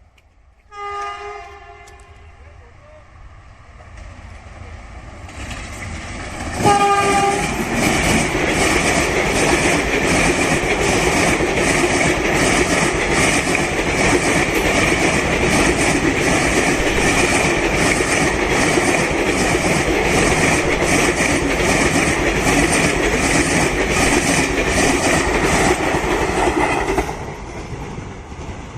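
Train horn sounding briefly twice, then a train passing close at speed for about twenty seconds: a loud steady rush with a regular clickety-clack of wheels over rail joints, which fades near the end.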